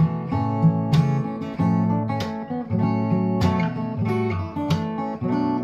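Solo acoustic guitar played fingerstyle: plucked bass notes and melody notes ringing together, with a sharp attack on each note or chord roughly every half second.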